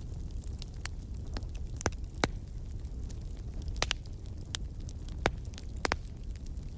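Wood fire burning in a fireplace: a steady low rumble of the flames with sharp, irregular pops and crackles from the burning wood, roughly one every half second to a second.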